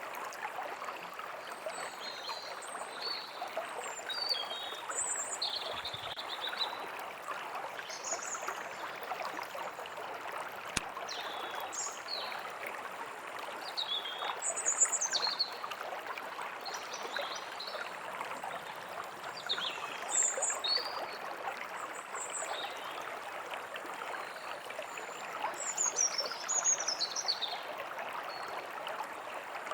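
Stream of water running steadily, with small birds chirping and calling in short, scattered phrases over it.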